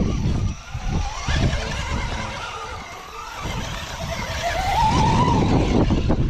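Wind buffeting the microphone in gusts. About four seconds in, a small electric motor's whine rises in pitch for about a second, typical of an RC rock crawler being driven on the course.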